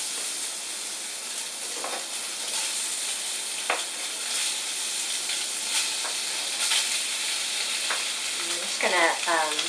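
Cubes of Spam sizzling and frying in a hot wok as they are scraped in off a cutting board, a steady hiss with a few light clicks.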